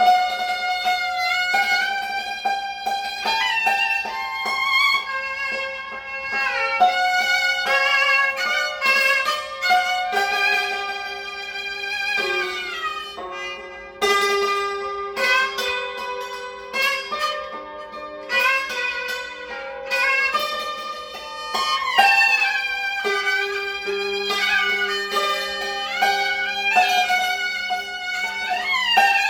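Gaohu (high-pitched Cantonese two-string fiddle) playing a melody with sliding notes, accompanied by a yangqin (hammered dulcimer) struck in quick notes.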